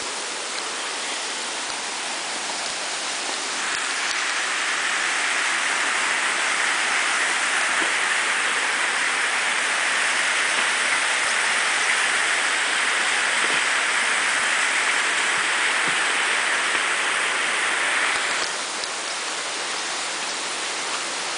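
Steady rushing of a tall waterfall, growing louder and brighter about four seconds in and falling back a few seconds before the end.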